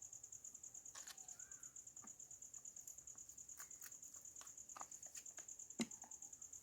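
Crickets trilling faintly: a steady, high, rapidly pulsing chirr, with a few scattered light clicks and one sharper click near the end.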